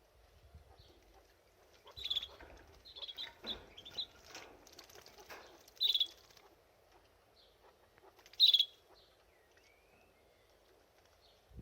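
Canary chirping at its birdbath: short sharp calls, a cluster in the first half and the loudest about eight and a half seconds in, with softer fluttering and splashing between them.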